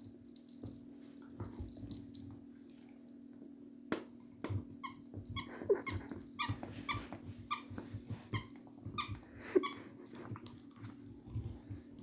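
Squeaky dog toy being chewed by a dog, squeaking in a quick irregular run of short squeaks, about two a second, that starts after a sharp click about four seconds in.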